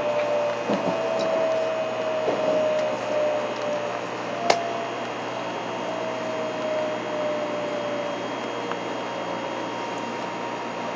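Inside a Hikari Rail Star (700 series) Shinkansen car: the train's steady running noise, with a motor whine that slowly falls in pitch. A single sharp click comes about four and a half seconds in.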